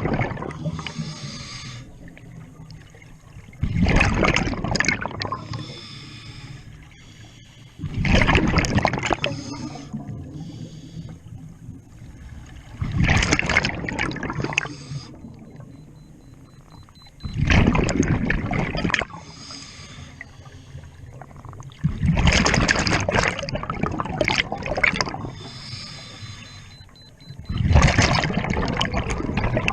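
Scuba diver breathing through a regulator underwater: a loud gurgling rush of exhaled bubbles about every four and a half seconds, with a fainter hiss of inhalation through the regulator between them.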